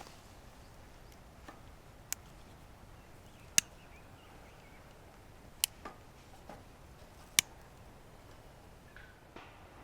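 Wood fire popping now and then: a few sharp, isolated cracks, four of them loud, over a quiet background.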